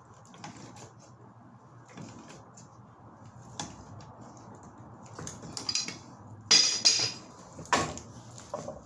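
Metal clinks and clanks from tools and pipe parts being handled during gas pipe fitting work: light taps at first, then a handful of sharp knocks in the second half, the two loudest close together about six and a half seconds in.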